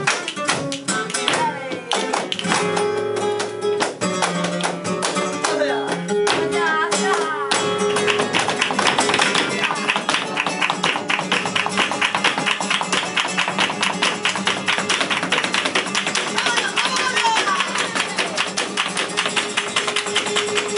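Live flamenco music for a solea por bulerías: Spanish guitar playing, joined from about eight seconds in by a dense, fast run of sharp taps, the dancer's zapateado footwork.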